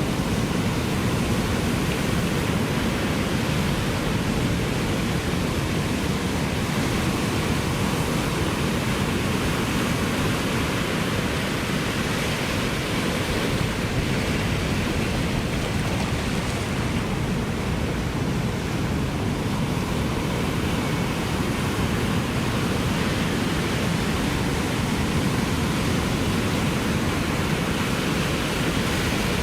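Ocean surf as a steady, even wash of noise, with no separate wave breaks standing out.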